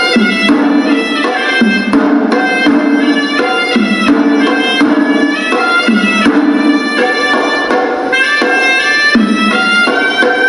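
Hewisi temple music: a horanewa, a Sri Lankan double-reed pipe, plays a reedy, nasal melody over a busy, rhythmic pattern of drum strokes.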